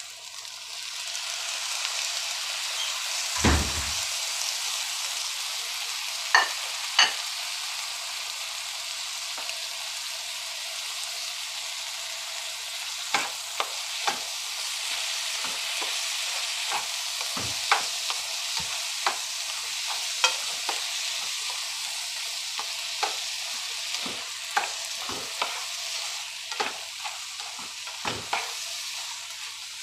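Chopped tomatoes frying with a steady sizzle on a hot oiled tawa of scrambled egg, the sizzle swelling about a second in as they go in. A dull thump comes a few seconds in, then a spatula scrapes and taps against the pan at intervals as the mix is stirred.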